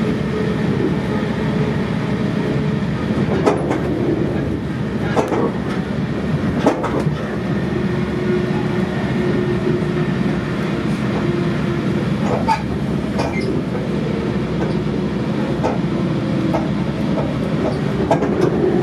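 Sounder commuter train coach rolling at speed, heard from inside the car: a steady rumble and hum, with several sharp wheel clicks over track joints.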